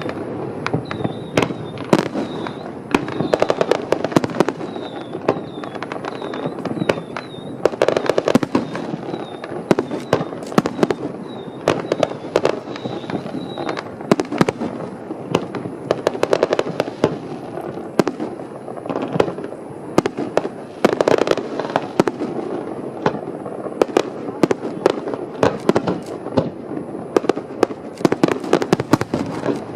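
Aerial fireworks display: dense, rapid crackling and popping throughout, with heavier booming shell bursts every few seconds.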